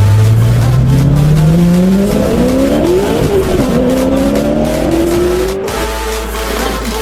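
A car engine revving up, its pitch climbing steadily for about three seconds, dropping briefly as at a gear change, then climbing again before cutting off sharply near the end.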